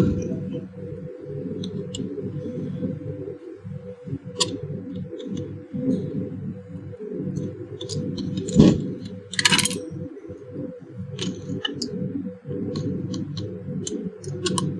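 Scattered clicks and scrapes of an electric iron's metal and plastic body parts being pried apart with a screwdriver-type voltage tester, with a louder knock about eight and a half seconds in and a brief rattle just after.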